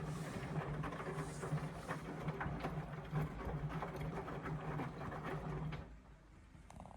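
Indesit washing machine's drain pump running with a steady hum and rattle while the drum empties, cutting out about six seconds in as draining finishes.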